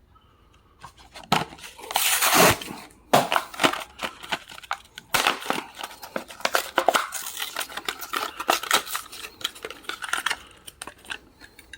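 Blister-card packaging of a die-cast toy car being torn open, with crinkling plastic and tearing card: a loud rasping tear about two seconds in, then a long run of quick crackles and clicks.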